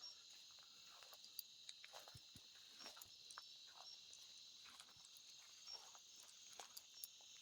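Faint, steady high-pitched insect chorus, with scattered soft ticks and rustles.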